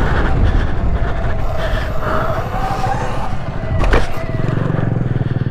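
Electric dirt bike motor whining, the pitch wavering up and down, over rushing wind noise; a sharp thump about four seconds in, after which a steady low buzzing hum takes over.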